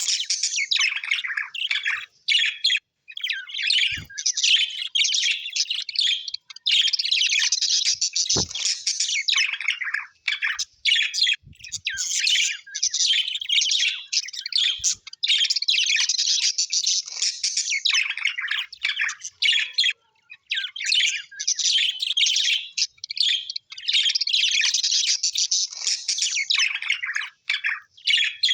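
Birds chirping and chattering in long, dense runs of quick high notes, with short breaks between runs and a few soft low knocks.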